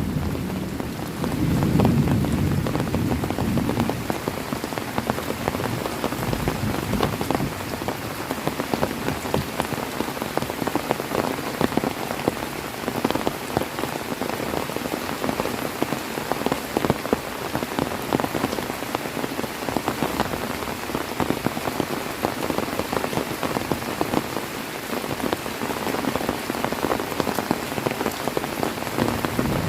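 Heavy rain falling steadily, a dense patter of countless drops. A low thunder rumble dies away in the first few seconds.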